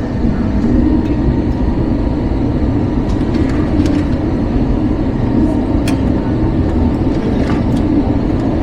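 Steady cabin noise inside an Airbus A321-231 airliner: a loud, even low noise of the engines and airflow, with a few faint clicks.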